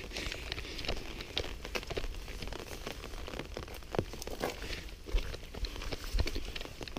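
Rain pattering on an umbrella held overhead: a dense run of small, irregular drop taps.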